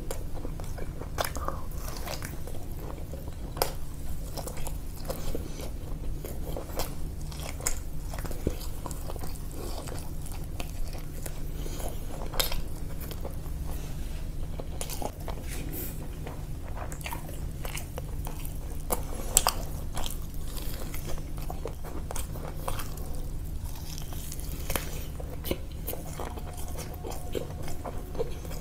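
A person eating close to the microphone: wet chewing with irregular sharp crunches from fried food. A steady low hum runs underneath.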